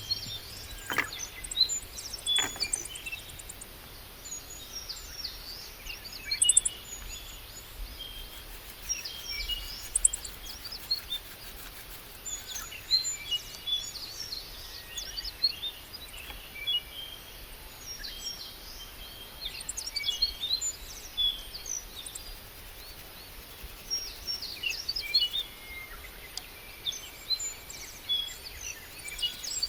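Wild birds singing and calling: many short, high chirps and quick trills coming in clusters, with several birds overlapping.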